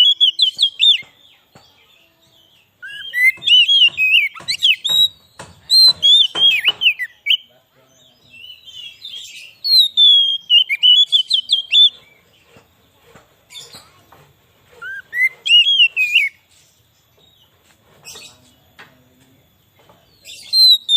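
Oriental magpie-robin (kacer) singing loudly in several bursts of rapid, sweeping whistled notes with sharp clicks mixed in, separated by short pauses.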